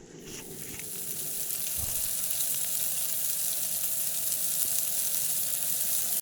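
Food sizzling as it fries in a hot pan: a steady high hiss flecked with small crackles, swelling in over the first second.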